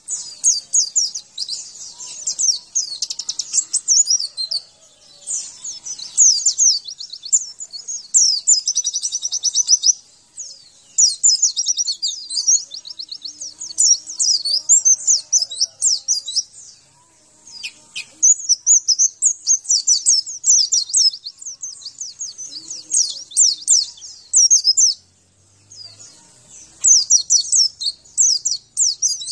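Pleci (white-eye) singing a fast, twittering song of rapid high chirps and trills, in runs of a few seconds with short breaks and a longer pause near the end. It is a masteran: a song recording played to pleci that have gone quiet, to prompt them to answer and sing.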